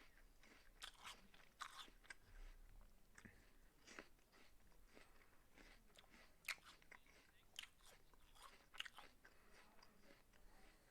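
A person chewing a raw apple: faint, irregular crunches as the flesh breaks between the teeth.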